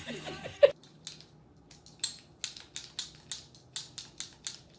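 A run of short, sharp, irregular clicks, about three or four a second, starting about a second in.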